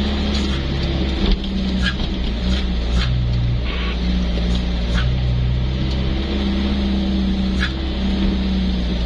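Truck running on the road: a steady low engine drone, with scattered short rattles and clicks.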